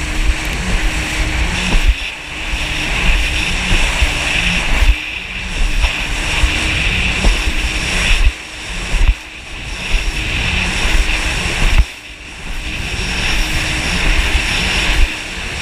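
Yamaha jet ski's engine and jet pump running under way, with heavy wind rumble on the microphone and spray hiss. The sound drops briefly several times through the stretch.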